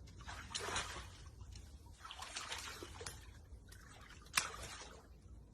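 Faint splashing and sloshing of water in several short bursts as Nile crocodiles tear at a zebra carcass, with one sharp click about four seconds in.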